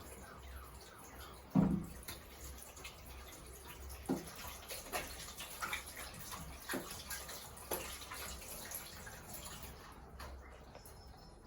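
Water running, with a few light knocks and clatters over it; the running stops about ten seconds in.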